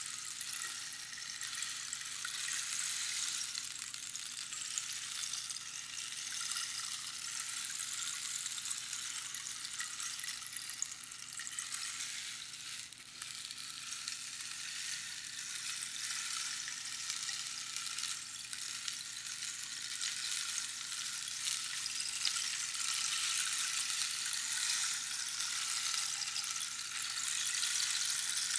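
Rainstick: small pebbles or beans trickling down past the pins inside a hollow cactus tube, making a dense, rain-like pattering hiss. The sound swells and eases as the stick is turned, with a brief lull about thirteen seconds in.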